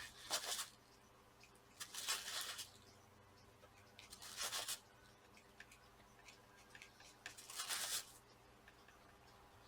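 Four short scraping strokes as old thermal paste is scraped off the laptop's cooling parts, each lasting under a second with pauses between. The paste is somewhat dry.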